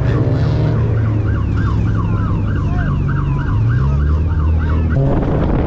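Emergency vehicle siren yelping, a fast rising-and-falling wail of about four sweeps a second, over a car engine running; the siren stops abruptly about five seconds in.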